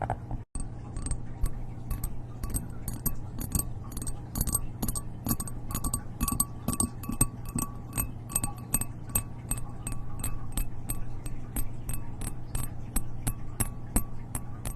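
Light clinking taps on a hard, glassy object, about three to four a second, each with a short ringing tone, over a low steady hum.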